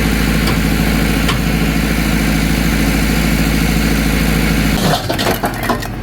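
Tractor engine idling steadily. About five seconds in the engine note drops away and a quick run of hard clattering knocks follows, like bricks tumbling off the trolley.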